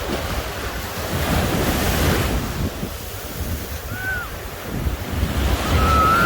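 Ocean surf washing in, with wind buffeting the microphone as a low rumble. One wave rises to a hiss about a second or two in. A short high cry comes about four seconds in, and a longer one starts near the end.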